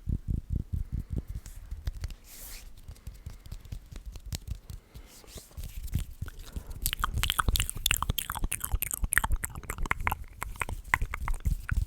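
ASMR hand and mouth sounds close to the microphone: quick rhythmic rubbing pulses at first, then from about seven seconds a dense run of sharp clicking mouth sounds.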